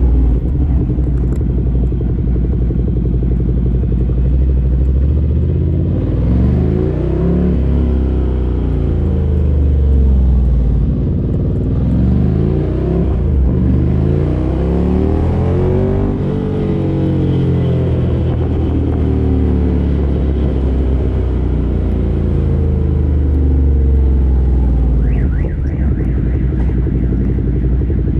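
2017 Ducati Monster 797's air-cooled 803 cc L-twin running through a LeoVince LV-10 aftermarket exhaust while riding. The revs rise and fall several times as the bike accelerates and rolls off the throttle.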